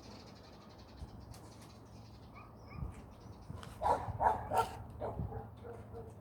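A dog barking: three short barks close together about four seconds in, then a few weaker ones.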